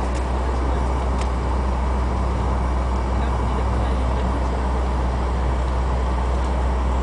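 Steady cabin noise of a Fokker 100 jet airliner: the rear-mounted Rolls-Royce Tay turbofans and airframe give a constant low hum and rumble, with a couple of faint clicks in the first second or so.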